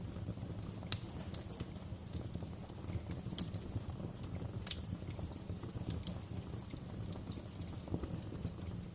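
Wood fire crackling in a fireplace: irregular sharp pops and snaps, one louder pop about a second in, over a steady low rumble of the flames.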